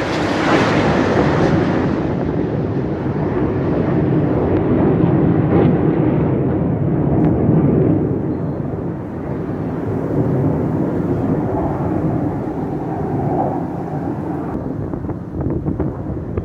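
Aircraft flying past at an air show: a loud rumble whose hiss falls away after about two seconds, leaving a lower rumble as the plane moves off.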